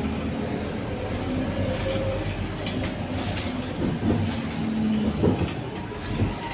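Scania K230UB city bus under way, its engine and drivetrain running with a steady drone and cabin rattles; the pitch dips and rises a couple of times in the second half, with a few knocks.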